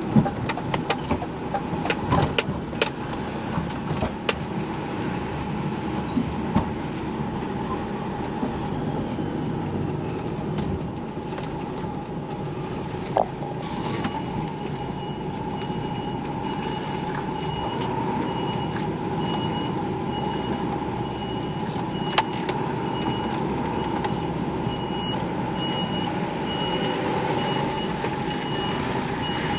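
Diesel truck engine running steadily, with a few sharp knocks in the first few seconds. About halfway through, a reversing alarm starts beeping in an even on-off pattern and keeps going.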